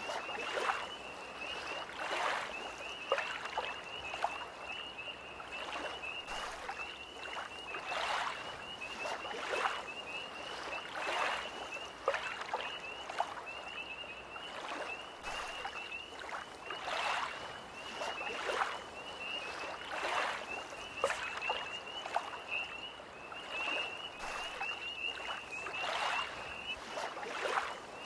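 Small lake waves lapping at the shore in splashes every second or so, under a continuous high, pulsing trill of tree frogs.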